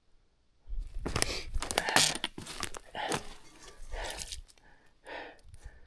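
A quick, dense run of crunching and scraping, starting about a second in and lasting about three seconds, then a few softer rustles near the end.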